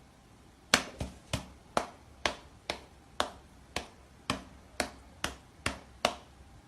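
A series of about thirteen sharp clicks or taps, roughly two a second and slightly uneven, starting just under a second in and stopping about a second before the end.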